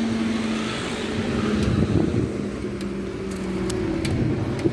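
Cars moving off and driving over the level crossing as the barriers lift, their engine notes shifting in pitch, with a few light clicks near the end.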